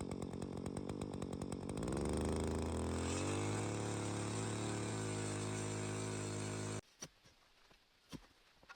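Small engine running at low speed, then revving up about two seconds in and holding at high speed until it cuts off sharply. A few faint clicks follow near the end.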